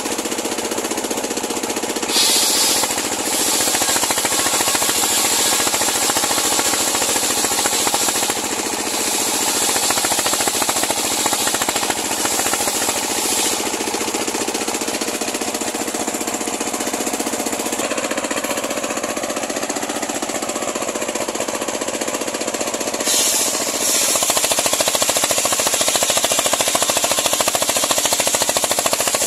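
Homemade engine-driven circular sawmill running, its blade ripping lengthwise through a large pule log: a dense, rapid rattle with a hissing rush that swells at stretches and is loudest near the end.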